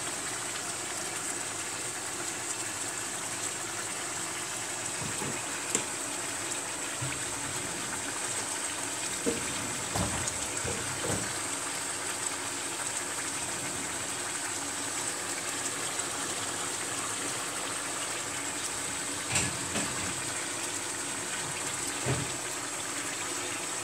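Tuna steaks frying in olive oil and their own juices in a frying pan: a steady sizzle, with a few faint clicks.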